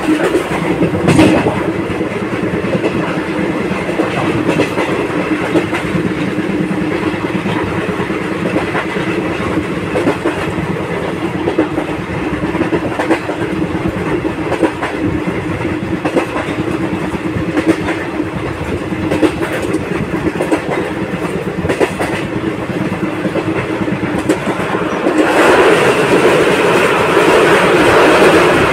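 Passenger express train running at speed, its wheels clacking over rail joints, heard from the open coach doorway. About 25 seconds in the sound gets louder as the train runs onto a steel truss bridge.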